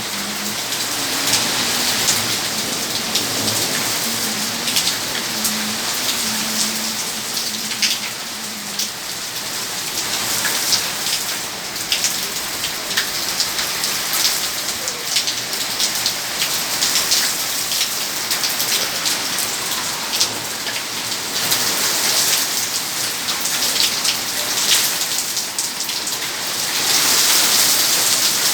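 Heavy rain pouring down steadily, with many sharp ticks of drops striking nearby surfaces; it grows louder near the end.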